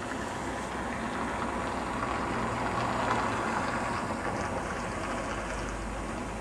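Passenger train coaches rolling slowly away along the track: a steady rolling noise that swells a little midway.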